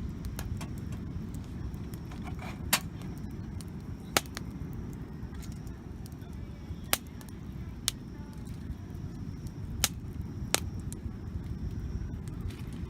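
Campfire wood crackling, with sharp single pops every second or two over a steady low rumble.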